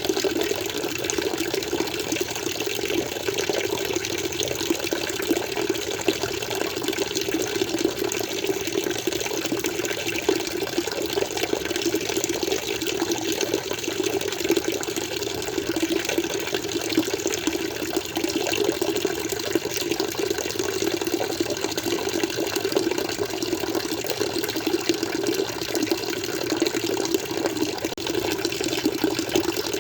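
Water flowing steadily, an even rush with no breaks or single splashes standing out.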